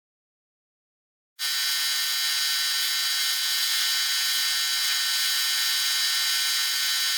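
Small electric power tool running steadily with a high-pitched whine, starting abruptly after a second or so of silence.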